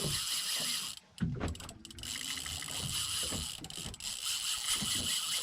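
Fishing reel buzzing with a fast ratcheting sound as a hooked amberjack pulls against it, with a brief break about a second in.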